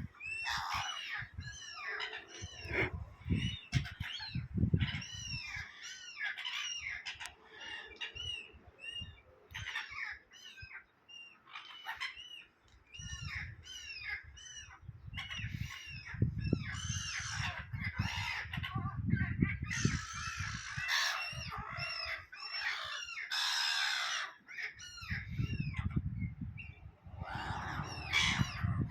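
A flock of seagulls squawking over and over as they fight over food: many short cries that rise and fall and overlap, with a low rumble underneath at times.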